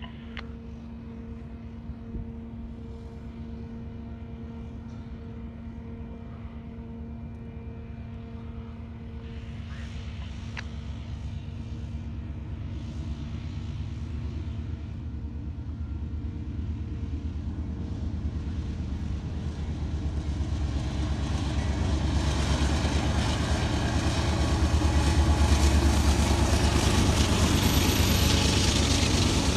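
Union Pacific diesel freight locomotive approaching and passing close by, its deep engine rumble growing steadily louder and peaking about 25 seconds in, with rising rail and wheel noise as the empty rail train's flatcars follow.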